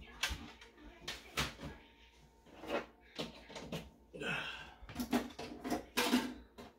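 Irregular knocks and clicks of things being handled and set down in a small room, with a brief rustle about four seconds in.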